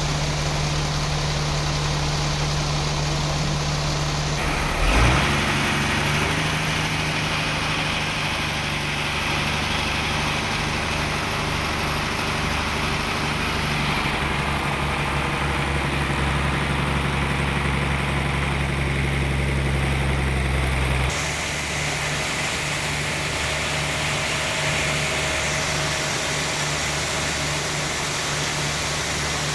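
Sawmill machinery running with a steady engine-like hum. There is a sharp knock about five seconds in, and the hum changes pitch there and again twice later.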